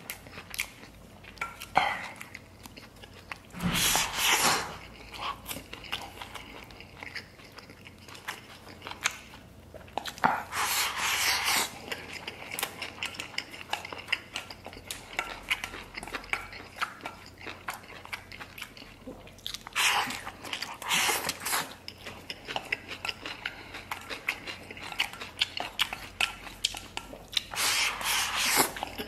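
Close-up eating sounds: steady chewing of chewy octopus and rice, broken four times by a louder burst of about a second as a mouthful is taken in from the bowl.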